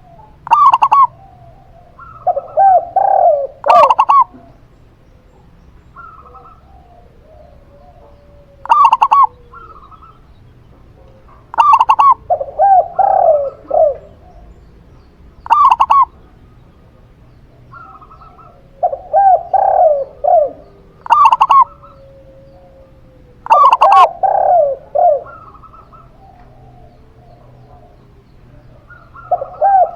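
A zebra dove and a spotted dove cooing in turn, a phrase every few seconds: short, loud higher coos alternating with lower, quicker strings of coo notes.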